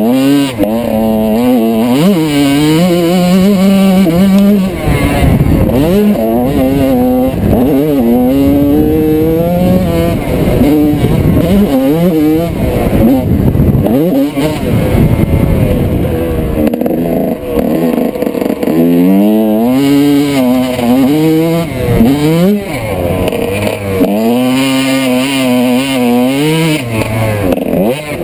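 Single-cylinder two-stroke engine of a 1995 Honda CR125 motocross bike being ridden hard. The engine climbs in pitch, drops back and climbs again every few seconds as the rider rolls the throttle on and off and shifts through the gears.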